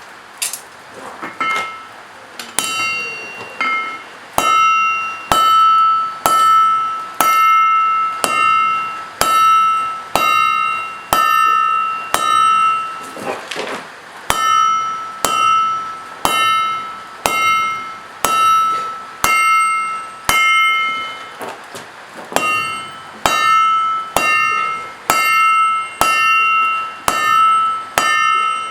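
Hand hammer striking hot steel on an anvil, with a bright ringing tone after each blow: a few lighter taps, then steady blows about one a second, broken by two short pauses.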